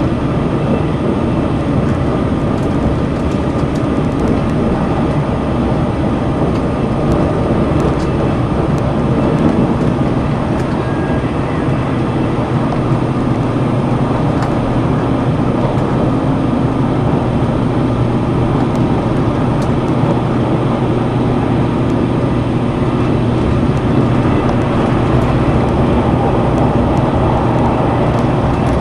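Cabin noise of the Sonic limited express, a JR Kyushu tilting electric train, running at speed: a steady rumble of wheels on rail, heard from inside the passenger car.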